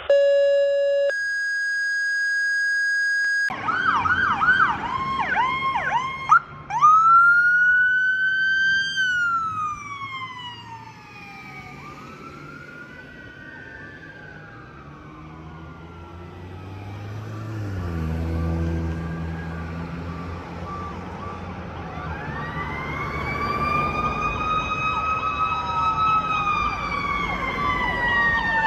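Sirens of responding fire apparatus: fast electronic yelp warbles, then long wails that climb and slowly wind back down, one after another. A deep, steady-pitched blast about eighteen seconds in, with a second wail over a fast yelp near the end. A few seconds of steady electronic tone come before the sirens start.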